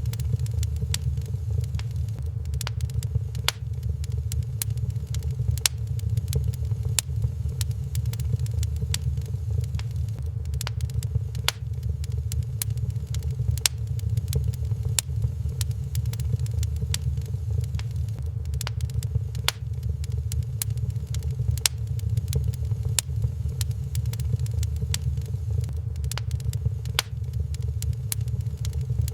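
Wood fire burning in a fireplace, with frequent irregular sharp crackles and pops of the burning logs over a steady low rumble.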